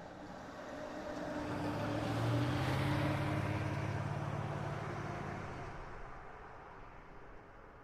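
A heavy diesel vehicle drives past, its engine growing louder to a peak about two to three seconds in and then fading away.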